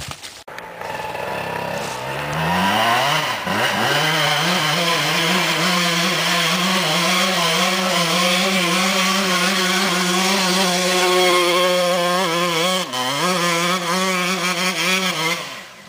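Dirt bike's single-cylinder engine revving hard on a hill climb. The pitch rises about two seconds in, then is held high and wavering, with one brief dip near the end before it fades away.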